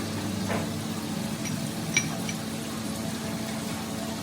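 Steady low machine hum in a workshop, with a light metallic clink about two seconds in and a few fainter ticks.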